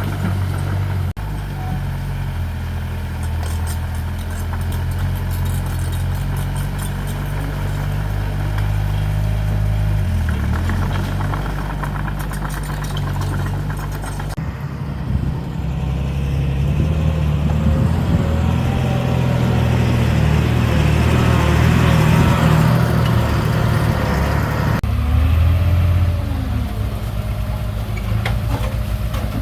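Heavy construction machinery diesel engine running steadily. The engine note changes abruptly about halfway through and again near the end, and it is loudest in the middle stretch.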